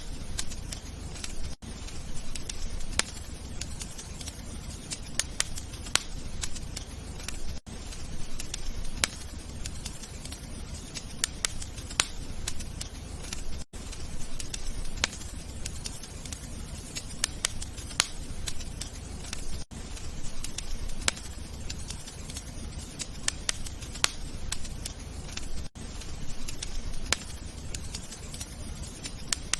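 Wood fire crackling, with irregular sharp pops and snaps over a low steady rumble. The sound drops out briefly about every six seconds.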